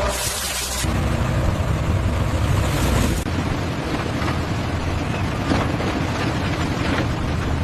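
Heavy machinery engine running steadily under a noisy, hissing rumble.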